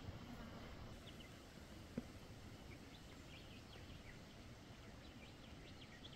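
Near silence: faint bush ambience with scattered small bird chirps and one soft tap about two seconds in.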